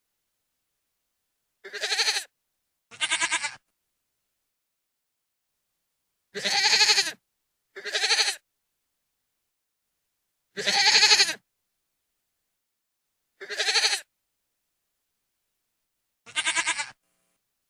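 Goat bleating: seven loud, wavering bleats, each under a second long, separated by clean silent gaps of about half a second to two and a half seconds.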